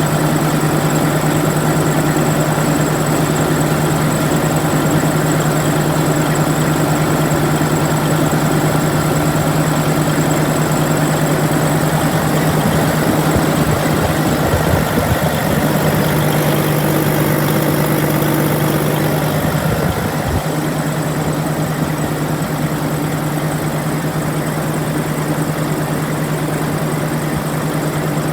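1994 Detroit Diesel Series 60 12.7-litre inline-six diesel engine running at a steady idle, a little quieter from about twenty seconds in.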